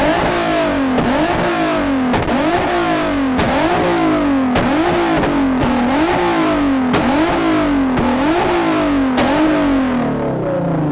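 Car engine revved over and over, about nine blips a little over a second apart, each a quick rise in pitch and a slower fall, with a sharp crack at each peak.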